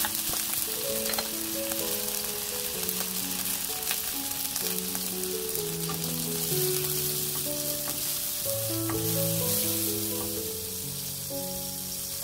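Cocktail shrimp sizzling and crackling in hot oil in a nonstick wok, a steady frying hiss. A soft background melody plays underneath.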